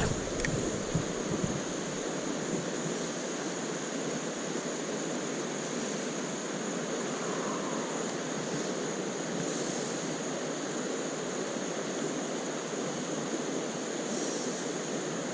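Small creek rapids rushing in a steady, even flow of water noise, with a few faint low bumps in the first second or so.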